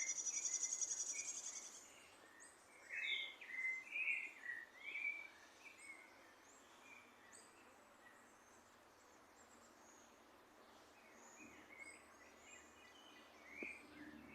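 Small birds chirping and calling faintly. A fast, high, buzzy trill comes in the first two seconds, then a quick run of short chirps, then scattered fainter high notes.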